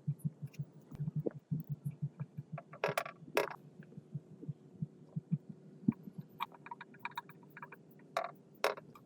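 Restored old air compressor running with a low, rhythmic thump of about six beats a second over a faint steady hum, with a few sharp clicks.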